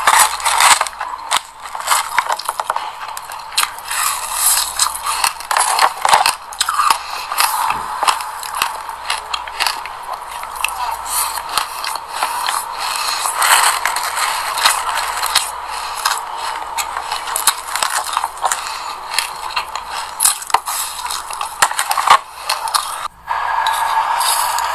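Close-miked chewing of crunchy seeds: a dense, irregular crackle of small crunches and clicks.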